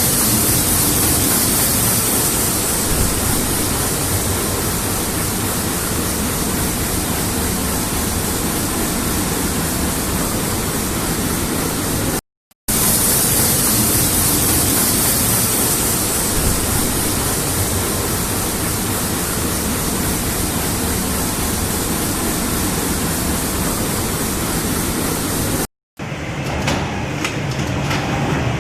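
A steady, loud rushing noise with no distinct events, broken twice by a brief silence, about twelve seconds in and near the end. After the second break it is quieter, with a few faint clicks.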